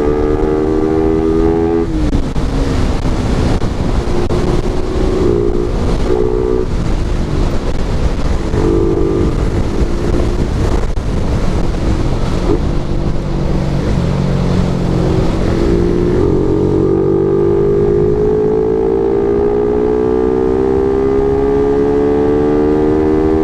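Suzuki Raider R150 Fi's single-cylinder engine pulling the motorcycle along the road, over steady wind and road noise. The engine note drops about two seconds in, holds steady for a while, then climbs steadily through the last third as the bike accelerates.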